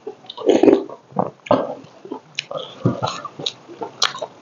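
Close-miked eating sounds: wet chewing, lip smacks and mouth clicks in an irregular run, with one louder wet mouth sound about half a second in.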